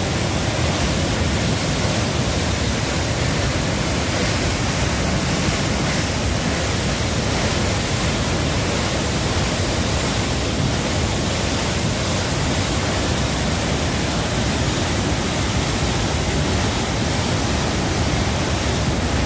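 Loud, steady rush of water pouring from a dam's spillway, an even, unbroken sound with no separate splashes or breaks.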